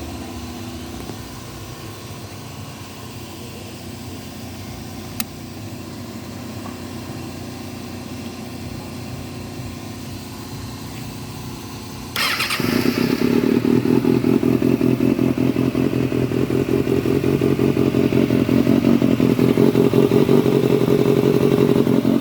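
Kawasaki ZX-6R ZX600P inline-four engine running on test: a steady, quieter run for about twelve seconds with a single click, then it suddenly gets much louder and holds at a higher, pulsing speed that slowly climbs.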